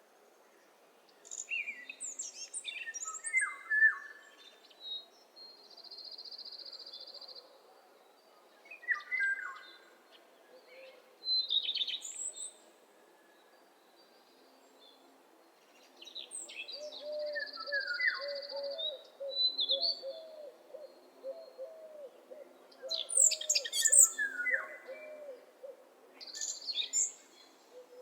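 Several birds singing and calling in turns: quick falling phrases and a steady, high buzzing trill, with a low, repeated call running through the second half.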